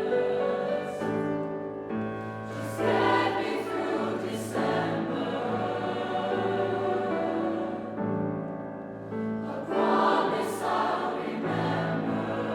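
Choir singing a held, sustained choral passage in several parts.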